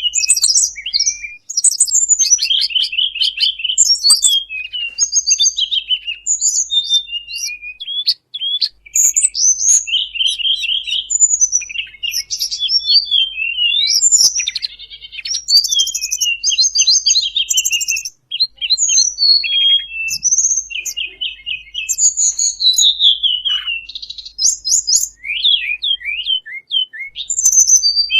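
A bird-trapping lure recording (suara pikat) meant to draw in the tledekan bambu: many rapid chirps, trills and down-slurred whistles, densely overlapping and varied, with no pause.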